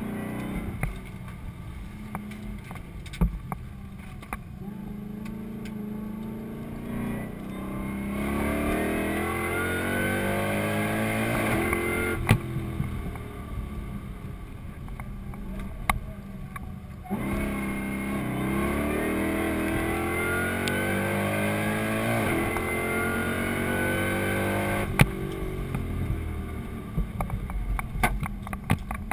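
Supercharged LS1 V8 of a Holden VE Commodore, heard from inside the cabin, running hard on track. Its revs climb steadily in two long pulls, about 8 s and 17 s in, with a quieter off-throttle stretch between them. A sharp crack comes at the top of each pull.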